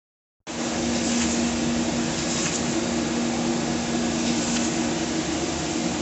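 A steady mechanical hum with a constant low drone under a hiss, cutting in abruptly about half a second in after dead silence.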